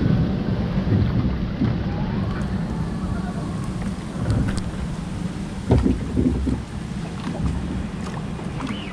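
Ride noise aboard a log flume boat: a steady low rumble of rushing water and wind on the microphone, with a louder thump about six seconds in.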